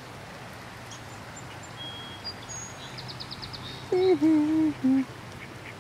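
Faint high chirps of small birds, then about four seconds in a goose honking: a few loud, short calls of fairly steady pitch.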